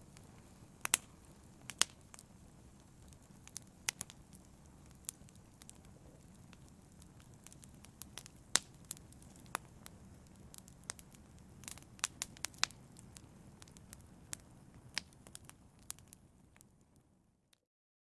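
Wood fire crackling in a fireplace: irregular sharp pops and snaps over a low steady rumble. The sound fades out and drops to silence near the end.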